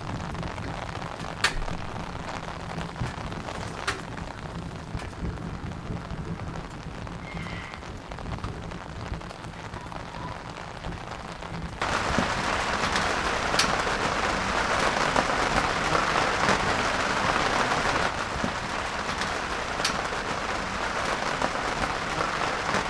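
Steady rain falling, with a few sharp ticks of single drops. It gets louder about twelve seconds in.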